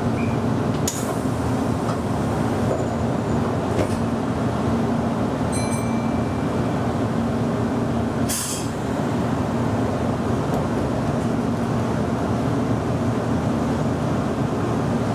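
Meitetsu commuter train running along the track, heard from on board: a steady running rumble with a low hum under it. A few brief clicks and knocks break in, the clearest about a second in, about four seconds in and about eight and a half seconds in.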